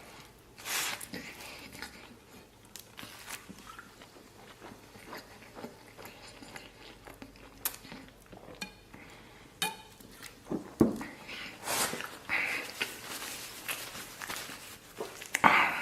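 Close-up eating sounds: a person biting and chewing, with scattered short clicks and smacks, louder around two-thirds of the way through and again near the end.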